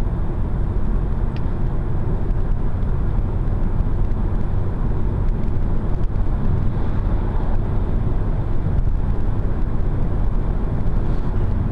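Steady road and tyre rumble inside a car's cabin cruising at about 90 km/h.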